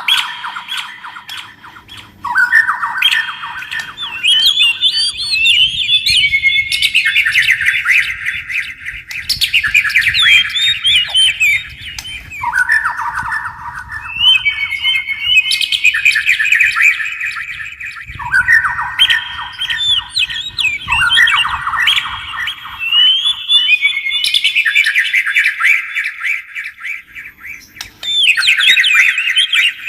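Oriental magpie-robin and white-rumped shama singing: loud, rapid strings of repeated notes in phrases that step up in pitch, a new phrase starting every few seconds.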